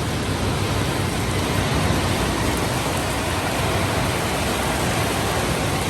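Heavy tropical rain pouring down in a steady, even roar, with water running off roofs faster than the drains can take it.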